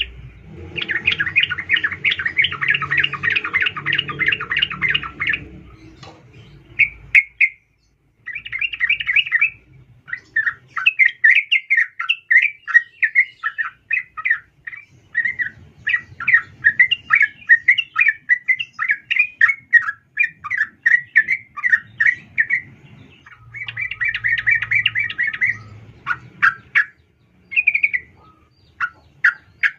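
Female sooty-headed bulbul (trucukan) calling to males: rapid chattering trills in bursts of a few seconds, broken by short pauses.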